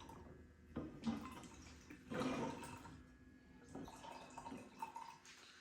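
Liquor being poured from a bottle into a cup, in a few short pours.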